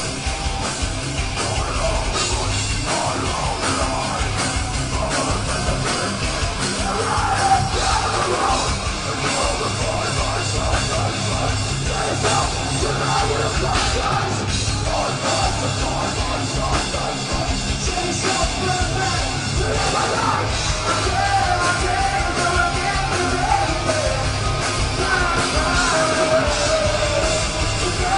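A live metalcore band playing loud and steady: distorted guitars and pounding drums, with a vocalist yelling and singing over them.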